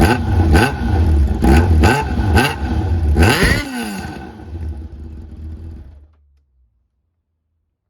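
Kawasaki ZZR1100 D inline-four revved through a Micron exhaust with its inner packing removed: about six quick throttle blips, then the revs fall back and the engine runs quieter before going silent about six seconds in.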